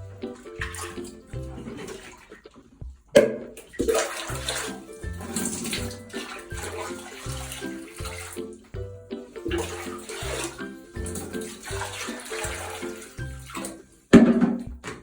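Water sloshing and splashing in a bathtub over background music with a steady beat, with two sudden louder splashes, about three seconds in and near the end.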